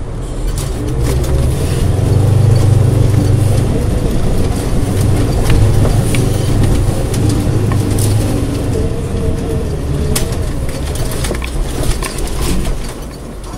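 4x4 engine running hard under load as the vehicle climbs a steep muddy bank, heard from inside the cab, its pitch wavering with the throttle. Scattered sharp knocks and clatter come with it as the vehicle bucks over the rough ground.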